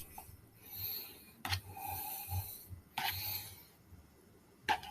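A utensil stirring ramen noodles through thick black bean sauce in a bowl: soft wet rasping in several short spells, with a few sharp taps against the bowl, one about a second and a half in, one about three seconds in and one near the end.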